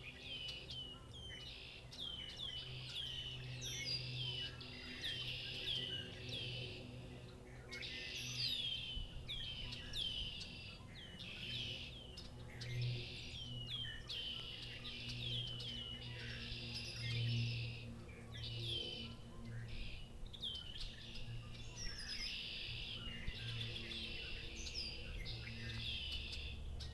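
A dense chorus of songbirds calling over each other, red-winged blackbirds leading, with many short, quick, repeated notes. A low hum runs underneath and swells now and then.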